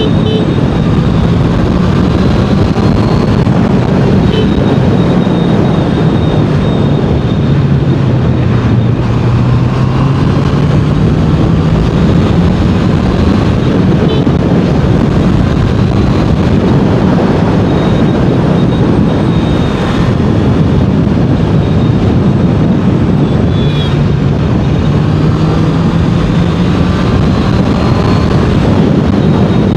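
Honda CBR650R inline-four engine cruising under steady throttle, nearly buried in heavy wind rush over the rider's helmet. The engine note sags for a few seconds about a third of the way through, then gradually climbs back as the bike speeds up again.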